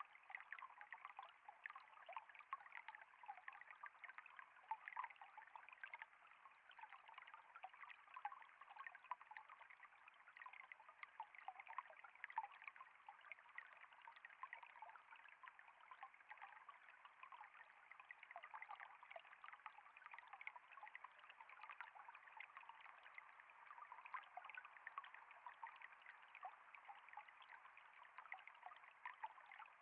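Water trickling steadily and faintly, a continuous stream of small splashes that never pauses.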